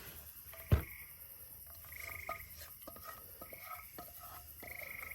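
A frog calling: short, buzzy trills repeated about every second and a half. A single knock comes just under a second in, with a few light clicks around the calls.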